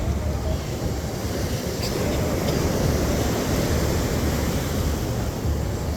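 Wind buffeting a phone's microphone in a low, uneven rumble, over the wash of ocean surf.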